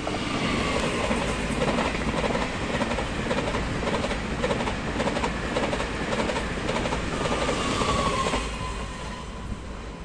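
Taiwan Railway train passing at speed, its wheels clicking over the rail joints at about two a second. It sets in loud at the start and fades away after about eight seconds.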